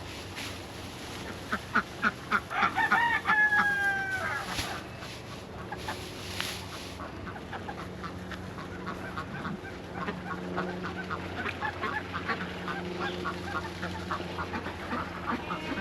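Barnyard chickens calling: a few loud squawks, then a drawn-out crow-like call about three seconds in, followed by a long run of quick, regular clucks. A steady low hum sits underneath from about the middle on.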